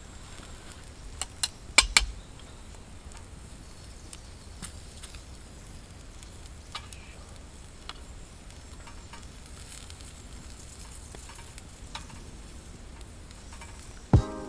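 Small wood campfire crackling with a faint steady sizzle and scattered sharp pops, the loudest pair about two seconds in.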